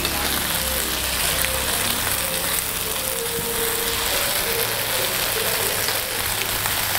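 Goat intestines frying on a flat iron griddle: a steady sizzle, with a metal spatula scraping and turning the pieces across the pan.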